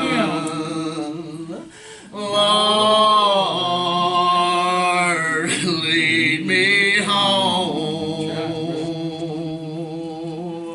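A man singing a slow gospel song with long held notes, after a short break about two seconds in.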